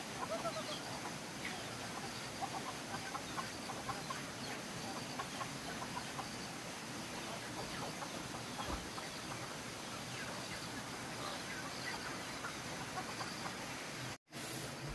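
A flock of poultry calling, with many short chirps and clucks overlapping over a steady hiss. The sound cuts out for a moment near the end.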